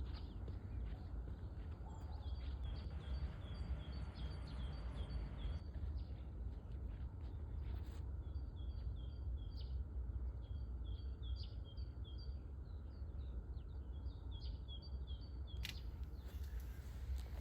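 Small songbirds chirping, many short calls repeating over and over, over a steady low rumble.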